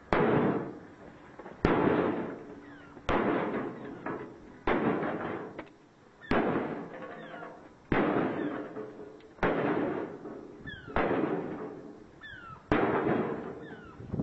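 A Baxi combi boiler being struck over and over with a heavy tool: nine loud blows about a second and a half apart, each followed by a rattling, clattering decay of the metal casing and loosened parts.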